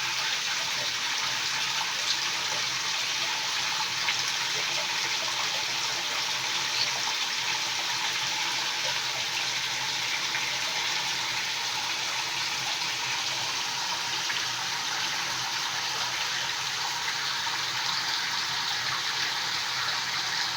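Steady rushing noise like running water, even throughout, with a few faint short clicks.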